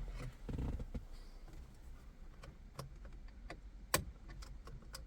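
Scattered small clicks and taps of hand tools working a plastic clip behind a car steering wheel's airbag, with one sharper click about four seconds in, over a low hum.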